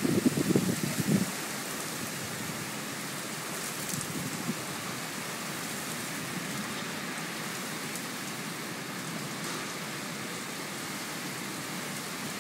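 Heavy thunderstorm rain, a steady even hiss. A louder low rumble in the first second or so cuts off abruptly.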